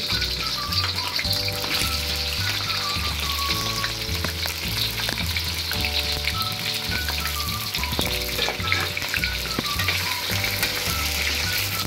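Potato pieces frying in hot oil in an iron karahi, a steady sizzle, with a slotted steel spatula stirring them and clicking against the pan now and then.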